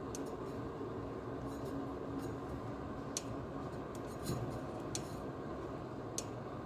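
HVAC return-air intake grille buzzing with a low steady tone over the rush of air. The buzz fades out about halfway through, and there are several sharp clicks or taps.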